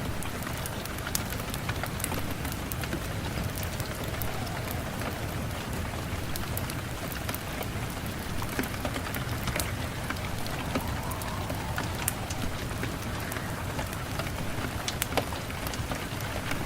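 Steady rain with a low rumble under it, and scattered sharp crackles and pops from a wood fire.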